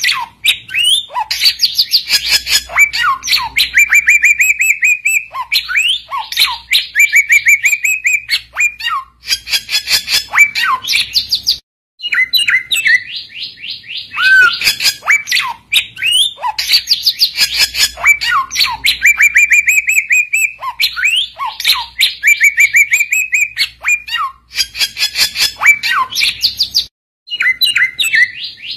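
A samyong songbird singing in full voice: long runs of rapid chirping notes mixed with slurred whistles that rise and fall, breaking off briefly about twelve seconds in and again near the end.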